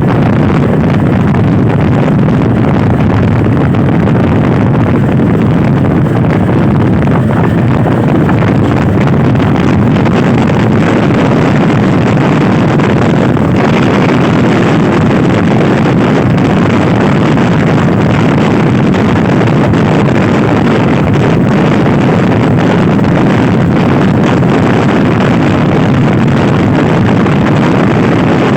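Loud, steady wind rush on the microphone of a Honda Scoopy i scooter ridden hard at speed, with the scooter's engine running underneath.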